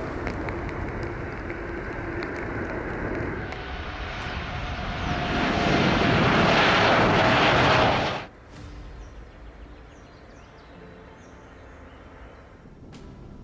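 Jet airliner engines, an Airbus A350-900's: a steady drone with a faint whine that swells much louder from about four seconds in, then cuts off abruptly about eight seconds in, leaving a much quieter background hiss.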